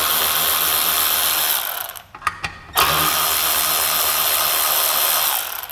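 Milwaukee cordless power ratchet with an 11/32 socket spinning nuts on a blower motor's mounting studs. It runs in two bursts of about two seconds each, with a short pause between them just after the two-second mark.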